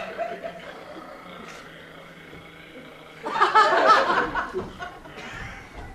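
Audience laughter: a short burst about three seconds in, after a quiet stretch of room murmur.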